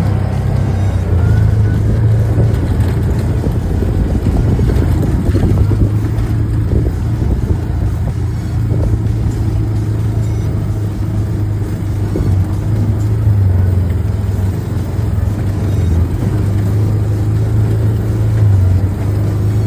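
Quad (ATV) engine running steadily while riding along a trail, its pitch shifting a little with the throttle.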